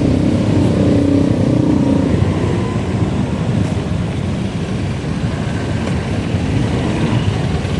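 Steady road and wind rumble from a bike ride in motion, heaviest in the low end. A humming, engine-like tone shows through it for the first two seconds.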